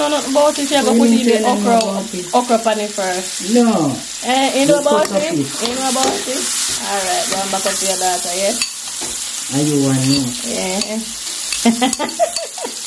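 Onion, garlic and pepper frying in butter in a stainless steel pan, a steady sizzle, with a louder voice-like pitched sound over it.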